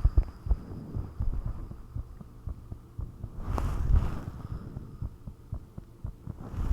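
A human heartbeat picked up up close by a microphone, as a run of low, muffled thumps over a low hum. About halfway through, a brief rushing noise rises and fades.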